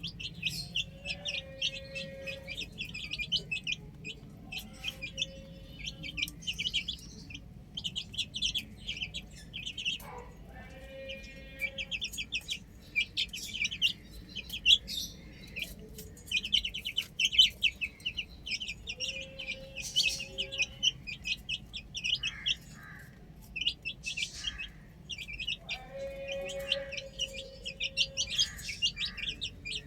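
A flock of baby chicks chirping continuously, many rapid high peeps overlapping, with a lower held call rising out of it every several seconds.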